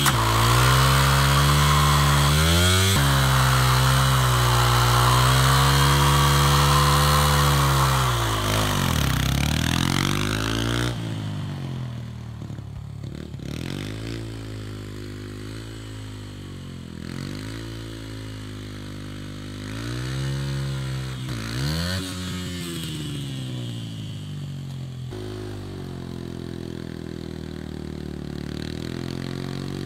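Small pit bike engine held at high revs for about eight seconds, then dropping and being revved up and down again and again, quieter from about eleven seconds in.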